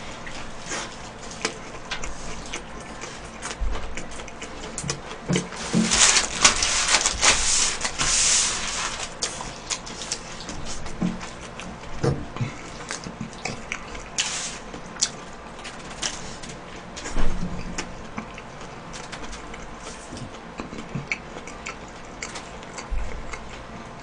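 Close-miked chewing of a hamburger: irregular wet mouth clicks throughout, with a louder, denser stretch of chewing noise about six to nine seconds in.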